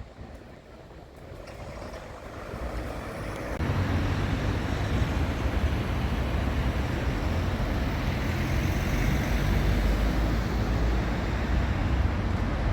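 Steady street traffic noise with a deep rumble, growing louder over the first few seconds and jumping up sharply about three and a half seconds in.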